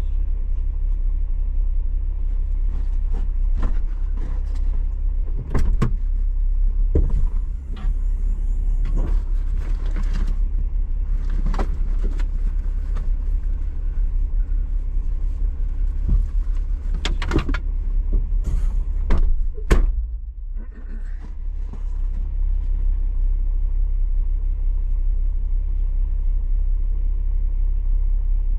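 A vehicle running with a steady low rumble, broken by scattered sharp knocks and rattles; the rumble dips briefly about two-thirds of the way through.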